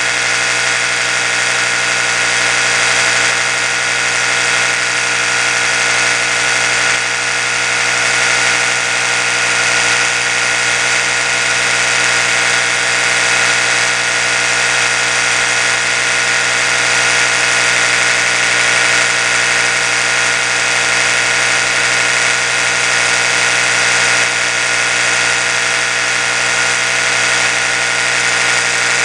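Oral-B electric toothbrush running continuously, a steady, even buzz with no change in speed.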